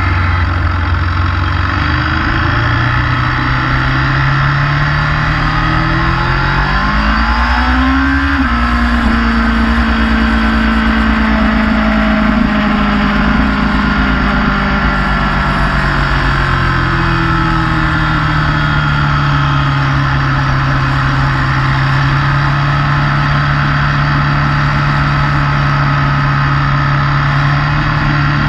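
Motorcycle engine under way: it revs up hard about seven seconds in, then settles back and holds a steady cruising note, over a constant rush of wind noise.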